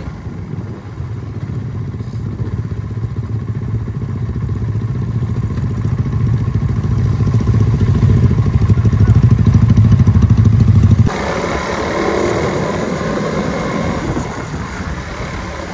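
Suzuki Raider 150 Fi single-cylinder motorcycle engine running at low speed, its steady pulsing growing louder. About eleven seconds in the sound changes abruptly to a quieter, hissier running sound.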